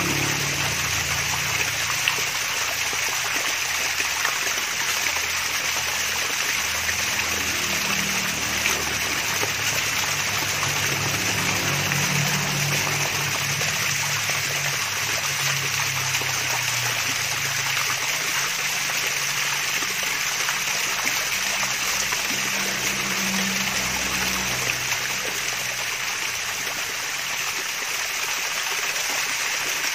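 Small artificial waterfall: water trickling and splashing steadily into a pool, an even hiss without pause.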